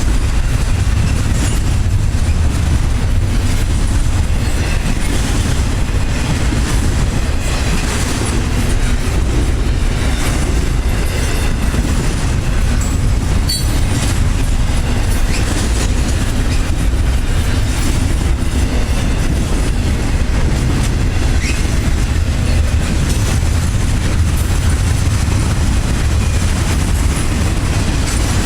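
A train rolling past steadily, its railcar wheels clicking over rail joints with a continuous low rumble, and a brief faint wheel squeal now and then.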